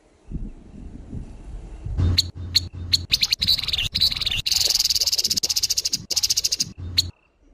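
Grey-headed babbler giving harsh, scolding calls: a few sharp notes from about two seconds in, then a fast, even rattle lasting about two seconds that stops abruptly near the end.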